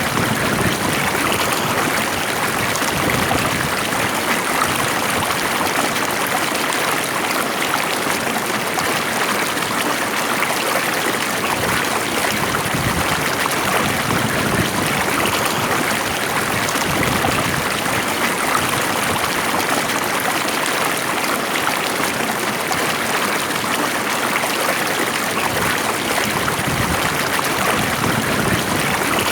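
Stream of water flowing steadily, a continuous even rush with no breaks.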